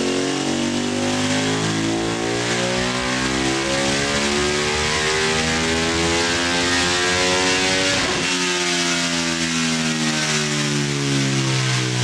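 Ducati Panigale V2 race bike's 955 cc L-twin engine on a dyno run, pulling hard against the roller with the revs climbing steadily for about eight seconds. There is a brief break about eight seconds in, and then the revs fall away as the throttle closes.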